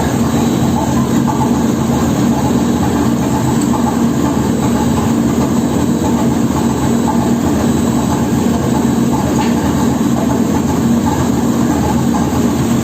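Volvo B5204T9 2.0-litre turbocharged five-cylinder engine running steadily at idle on an engine test stand, warm at about 70 °C with normal oil pressure.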